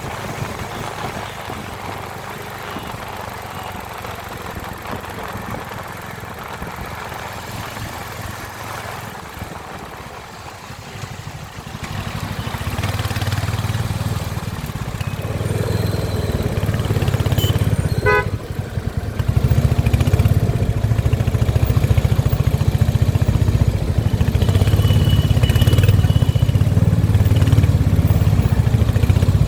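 Royal Enfield Hunter 350's single-cylinder engine and exhaust running steadily, then growing louder about twelve seconds in and again around twenty seconds in.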